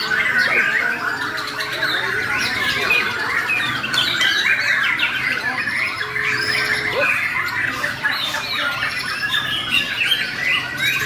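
White-crowned shama (murai borneo) singing: a dense, fast, unbroken run of chattering and warbled phrases in an aggressive, full-volume style. Two short, low, steady whistled notes sound about a second in and about six seconds in.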